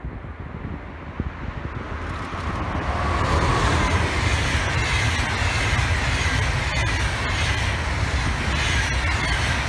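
A train approaching and passing: its rolling noise builds over the first three seconds, then runs loud and steady with a whine falling in pitch and a few sharp clicks from the wheels.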